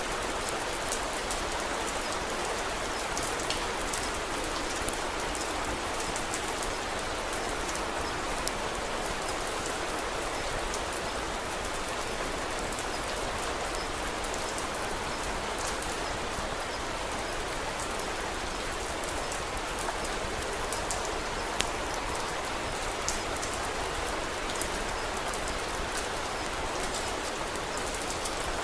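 Steady rain falling, with scattered sharp crackles from a wood fire now and then, one a little louder about three-quarters of the way through.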